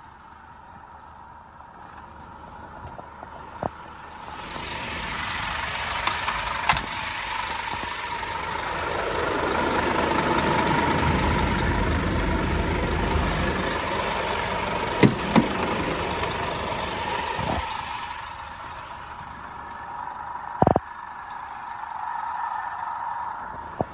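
Truck diesel engine running, growing louder from about four seconds in, loudest around the middle, and fading again a few seconds later, over a steady whine, with a few sharp clicks.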